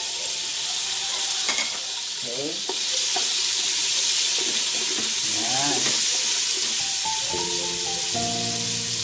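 Chicken pieces sizzling in hot butter with garlic and onion in a metal pot, starting suddenly as they hit the pan, while a spatula stirs and scrapes them around. Background music comes in near the end.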